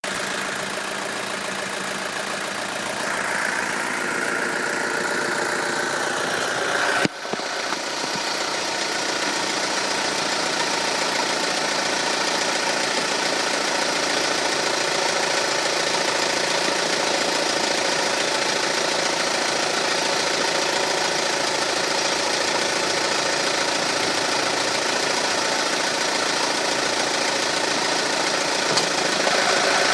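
BMW E46 318i's N46 four-cylinder petrol engine running steadily with a rattle, with a brief sharp click about seven seconds in.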